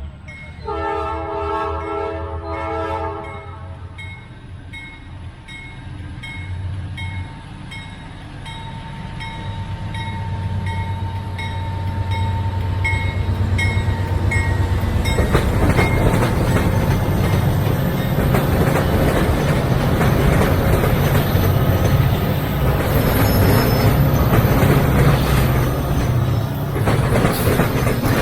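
A freight train's diesel locomotive horn sounds one multi-tone blast of about two and a half seconds. The train then approaches, its low engine rumble growing louder. From about halfway through it passes close by, with loud rolling wheel and railcar noise.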